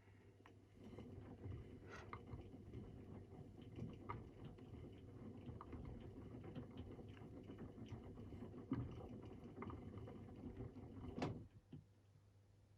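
AEG Protex Plus L87484AFL front-loading washing machine turning its drum slowly so the wet laundry tumbles and patters inside, with scattered soft knocks. This is the drum shifting the load before the final spin. The tumbling starts about half a second in and stops with a click near the end.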